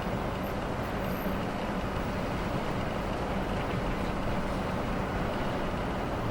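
Steady low rumble and hiss of a motor vehicle running, unchanging throughout.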